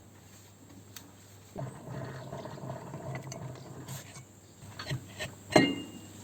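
Metal scraping and rubbing for about two seconds as the mower's pan cover is worked loose, followed near the end by a few light clicks and one sharp metallic clink with a brief ring.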